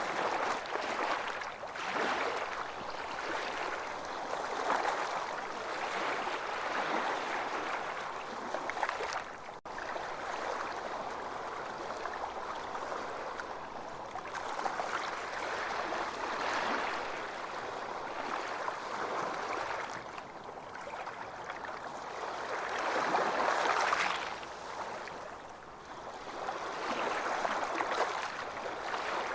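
Ocean surf washing onto a beach: a continuous hiss of water that swells and eases every few seconds, with one swell near the end the loudest.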